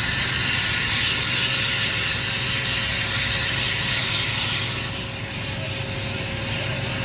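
An engine running steadily under a loud hiss. The hiss eases off sharply about five seconds in while the engine carries on.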